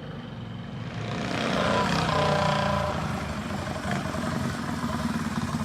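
Mini bike's small engine running as it approaches, growing louder over the first two seconds, then running steadily close by.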